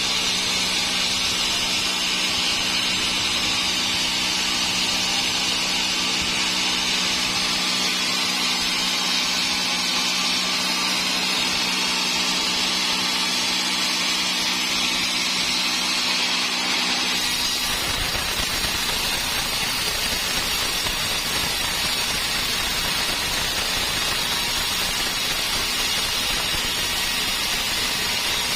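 Sawmill saw running steadily through dry teak. About 17 seconds in, its steady hum drops out and the sound changes to a rougher, even noise.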